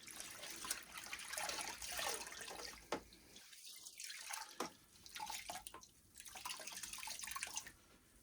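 Water splashing and dripping in a bucket of warm soapy water as cloths are dipped and wrung out. There is a short lull a little past the middle and a couple of sharp clicks.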